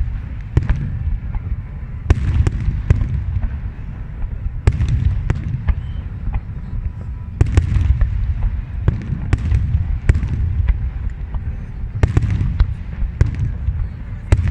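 Aerial fireworks bursting in a steady barrage: sharp cracks in clusters every second or two over a continuous deep rumble of booms.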